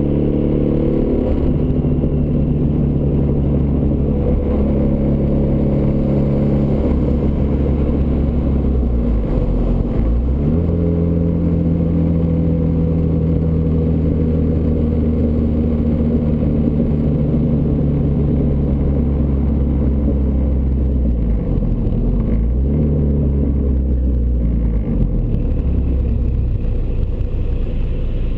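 Turbocharged Ford Escort ZX2's four-cylinder engine running steadily through a custom 3-inch side-exit exhaust. The exhaust note dips briefly twice, about a third of the way in and again after the middle, before settling back to a steady drone.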